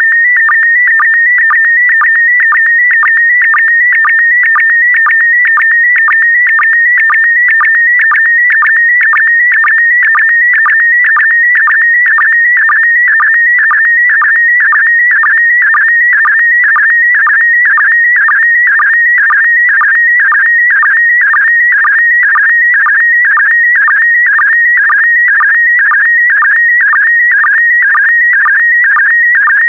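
PD120 slow-scan television (SSTV) image signal: a continuous high, warbling electronic tone whose pitch shifts with the picture being sent, broken about twice a second by a short lower sync pulse that marks each new pair of scan lines.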